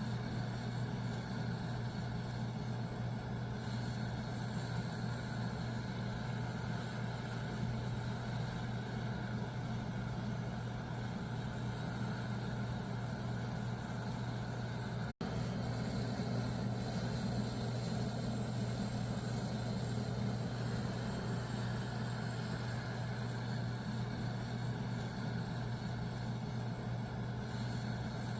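Steady low mechanical hum with an even hiss over it, cutting out for a split second about halfway through.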